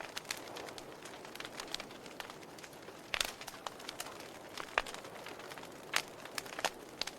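Wood fire in a fireplace crackling over a soft steady hiss, with several sharper pops about three, five and six seconds in.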